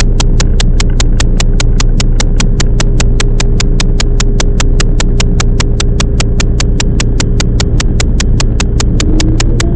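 A Toyama Chiho Railway 10030 series electric train running, heard from inside: a steady low rumble with a fast, very regular ticking about five times a second. A rising whine comes in near the end.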